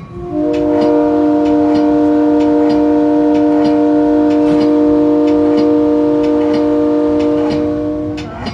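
Metra commuter train's locomotive horn sounding one long blast of about eight seconds, a chord of several notes held at an even pitch, starting just after the beginning and dying away near the end.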